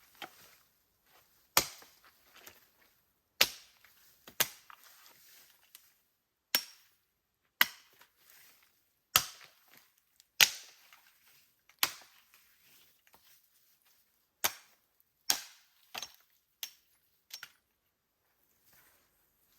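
Wood being chopped with a blade: about a dozen sharp blows at uneven intervals of a second or so, each with a brief ring.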